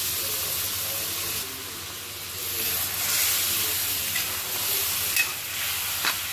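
Water hitting a kadhai of vegetables and spices frying in hot oil, sizzling and hissing, while a metal ladle stirs and scrapes against the pan. The sizzle swells around the middle, and a few sharp clicks of the ladle on the pan come in the second half.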